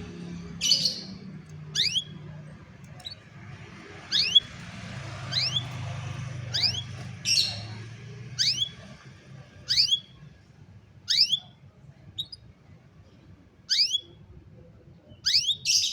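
Domestic canary repeating a short chirping call note about once every second, each note a quick pitch sweep, with a few harsher, noisier calls mixed in.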